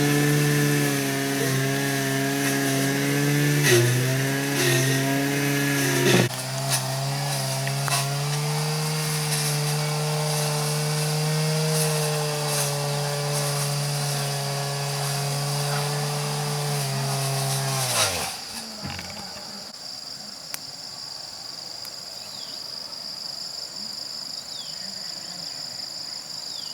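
Small petrol engine of a power tool running steadily, its pitch shifting a few times, then winding down and stopping about two-thirds of the way through. Afterwards only a steady high-pitched drone remains.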